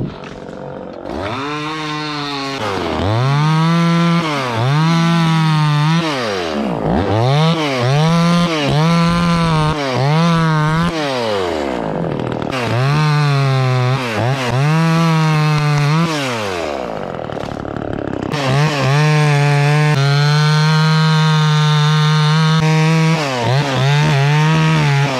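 A two-stroke chainsaw cutting wood. It is revved up and let back down again and again, then held at full throttle for several seconds near the end.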